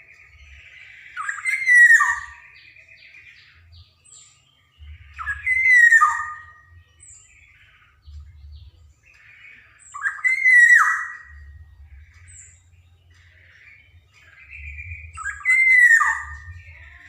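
Black-naped oriole (kepodang emas) singing: four loud whistled phrases, about one every four to five seconds, with quieter chattering notes between them.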